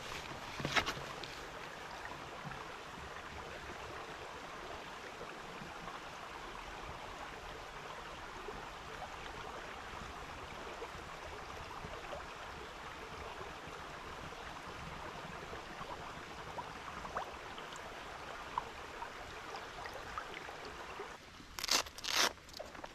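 Steady outdoor background hiss in a forest, with a couple of sharp clicks at the start and two louder short rustling bursts near the end.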